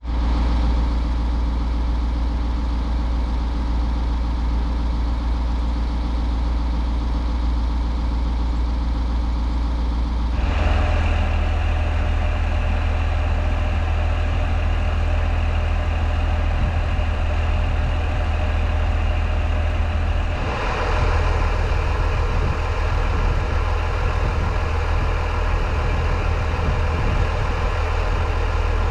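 Engine of a railway track maintenance vehicle idling steadily with a strong low hum. The sound changes abruptly about ten seconds in and again about twenty seconds in.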